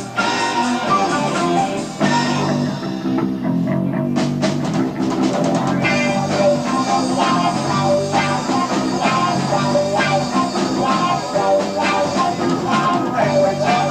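Progressive rock band playing live, heard on an amateur tape recording: electric guitar over bass, drums and keyboards, with no singing. There is a quick run of drum hits about four to six seconds in, then the full band carries on.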